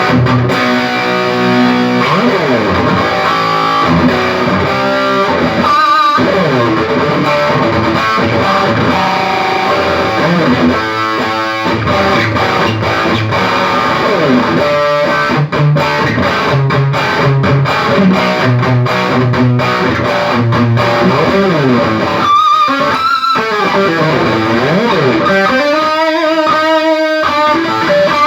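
Electric guitar played through a Peavey Triple XXX tube amplifier with heavy distortion: riffs, chords and single notes with short pauses between phrases. It is a playing test of the amp after new capacitors in its preamp section and a re-bias.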